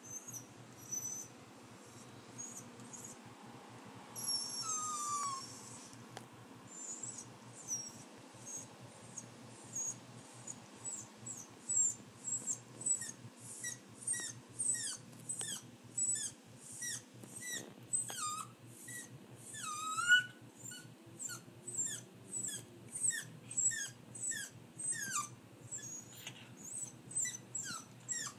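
Small terrier-mix dog whining and crying for food: a long string of short, high-pitched yelps, each falling in pitch, with one longer drawn-out whine early on and the cries coming about one to two a second later.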